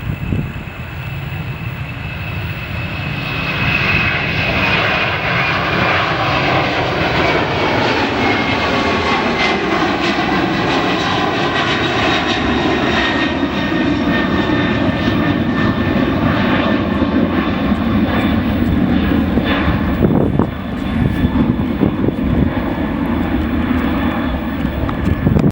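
Jet airliner's engines passing close by: a loud, steady rumble that builds over the first few seconds, with a high whine that slides slowly down in pitch as the plane goes past.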